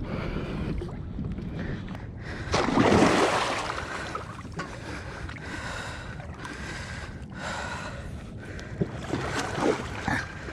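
Splashing water as a hooked gar thrashes at the bank, with the loudest splash about two and a half seconds in and smaller splashes near the end.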